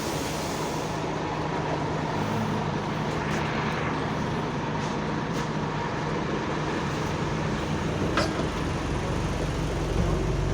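Bus SE198's diesel engine running steadily at idle, a rattly idle, with a low rumble that grows heavier near the end. A single sharp click is heard about eight seconds in.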